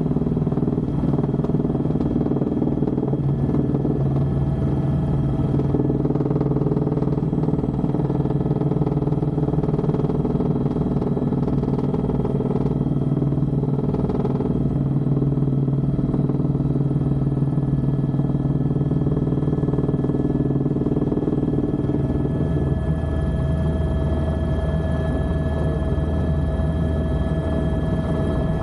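Helicopter engine and rotor running steadily, a loud drone with a pulsing low rumble. A little over 22 s in, the low part of the sound changes and higher steady whining tones come up.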